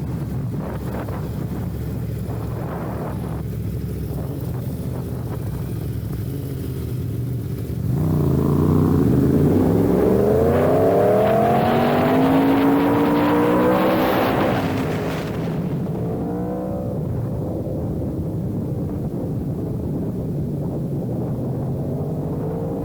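Sport motorcycle engine under way: a steady drone, then from about eight seconds in a hard acceleration through several gears, the pitch climbing and dropping back at each upshift, before it eases off to a steadier cruise with a few lighter revs.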